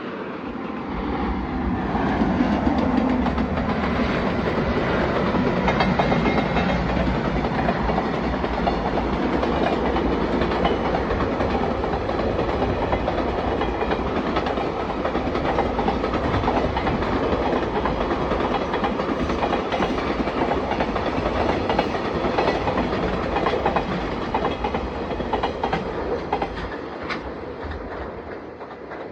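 Train passing close by: a steady rumble of wheels on rail with clickety-clack over the rail joints, building up over the first couple of seconds, holding, and easing off near the end.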